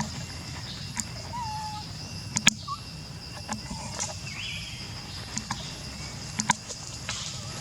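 Steady high insect drone over a low background hum, with scattered sharp clicks and a few short, faint pitched calls.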